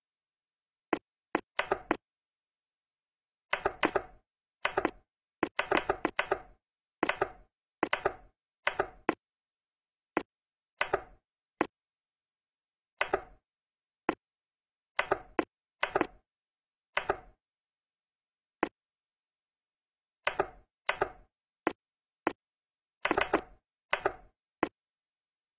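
Plastic toy building bricks being handled and pressed together: irregular clusters of sharp clicks and taps, with dead silence between the clusters.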